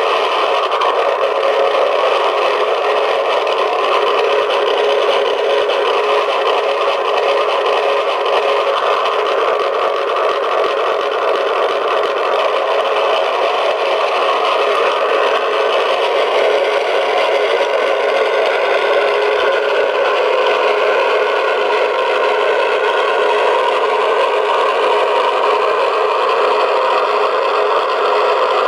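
Recorded aircraft engine sound played back through the small speaker of a 1/16 scale Zero engine model, running steadily. It sounds thin and tinny, with no bass.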